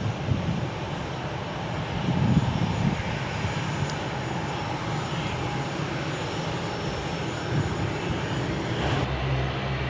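Airliner engine noise: a steady rumble with a broad hiss, which changes abruptly about nine seconds in.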